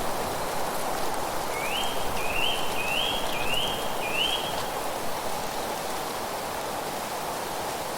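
A bird sings a phrase of five quick rising whistled notes, starting about a second and a half in, over a steady even rushing noise of a nature ambience.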